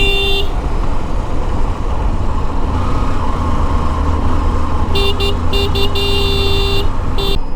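Steady low rumble of a motorcycle ride, with a vehicle horn beeping briefly at the start and again in a string of short beeps and one longer honk from about five seconds in.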